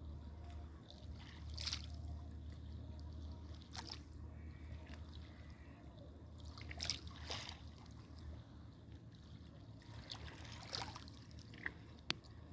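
Faint water splashing and trickling in short, irregular bursts over a steady low rumble.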